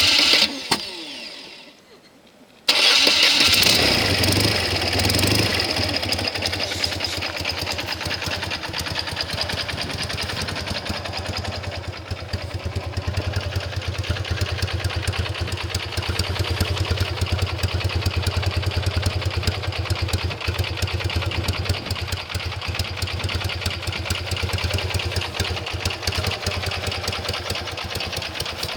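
BMW R100GS air-cooled boxer twin exhaling through a stainless aftermarket muffler: a short burst right at the start that dies away, then about two and a half seconds in the engine starts, runs up briefly and settles into a steady, evenly pulsing idle.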